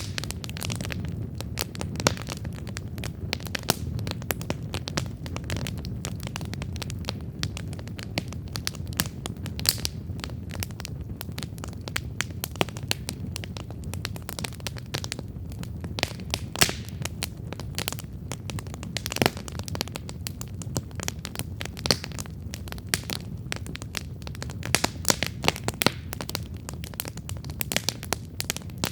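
Wood campfire burning, with frequent sharp irregular crackles and pops over a steady low rumble of the flames.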